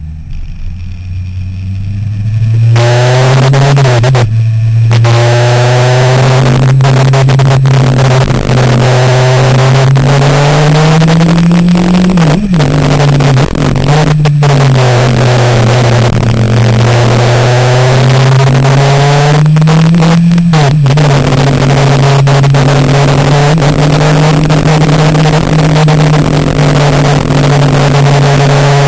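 Sportbike engine pulling hard through the gears. The engine note climbs, drops and breaks briefly at each shift several times, then settles into a steadier run near the end, over a loud steady hiss.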